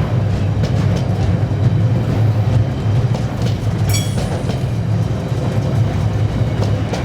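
Train passing with a steady low rumble and faint clicking of wheels over the rails, and a brief high-pitched squeal about four seconds in.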